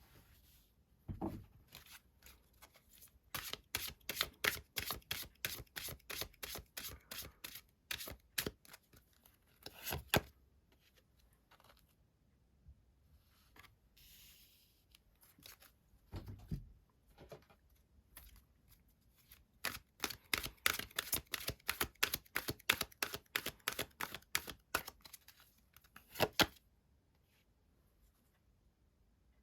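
A deck of tarot cards being shuffled by hand: two long runs of rapid card clicks, a few each second, with a few heavier knocks of the deck in between.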